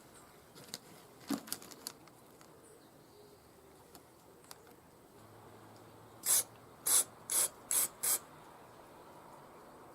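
Carburetor parts and tools being handled: a few small clicks and knocks, then five short hissing bursts in quick succession about two seconds later.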